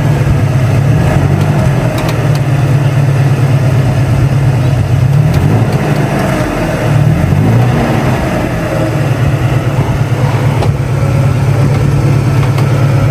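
1997 Toyota Tacoma pickup's engine running with an aftermarket exhaust, steady except for a brief dip and rise in revs around the middle.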